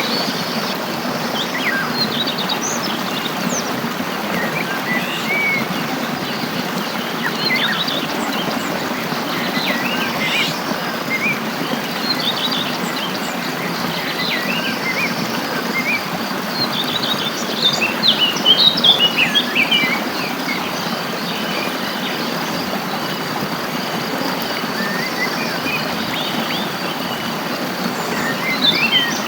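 Wild birds chirping and calling on and off over a steady even rushing background, with a thin high insect drone. About eighteen seconds in there is a busier, louder flurry of chirps.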